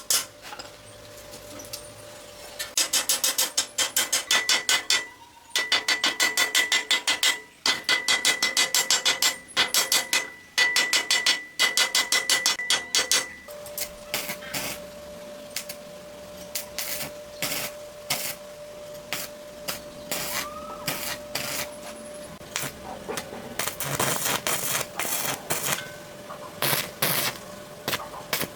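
Hand-tool work on metal: runs of fast, even strokes, about five or six a second, lasting a few seconds each, then scattered clicks and taps over the second half.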